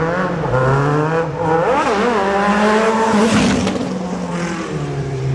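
Sport motorcycle engine being revved: it holds a steady note, then its pitch rises and falls sharply in a quick blip about two seconds in, with a hissing rush near the middle.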